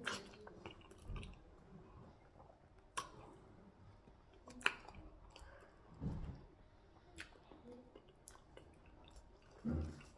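Mouth sounds of a person eating fufu with afang soup by hand: soft, wet chewing with scattered lip smacks and clicks, and a few dull swallowing or chewing thumps.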